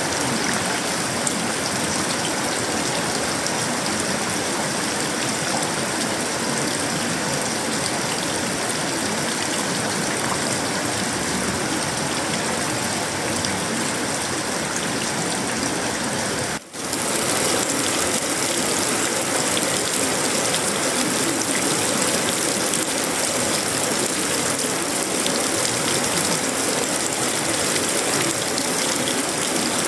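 Heavy tropical rain falling steadily on sheet-metal roofing, wood and leaves, a dense even hiss, broken once by a momentary dropout a little past halfway.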